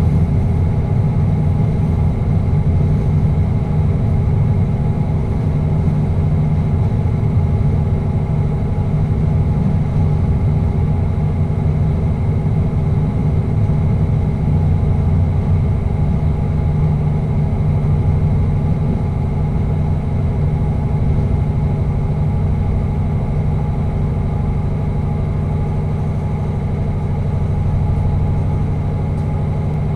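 A passenger train heard from inside its driving cab: a steady engine drone with low rumble, holding an even pitch as the train runs slowly along the track.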